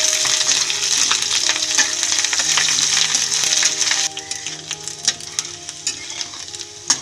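Minced garlic and ginger paste sizzling and crackling in hot oil in a steel kadhai, stirred with a metal spatula. The sizzle drops sharply about four seconds in, and there is a sharp click near the end.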